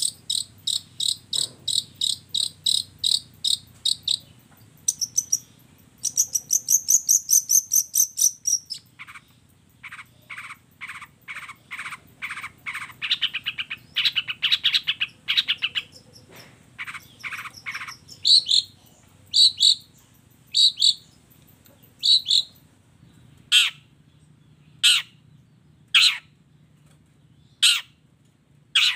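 Long-tailed shrike (cendet) song mixed with mimicked fill-in phrases. Rapid high chattering trills come first, then a fast series of lower repeated notes about a third of the way in. The last third is a string of single harsh calls, roughly one every second and a quarter.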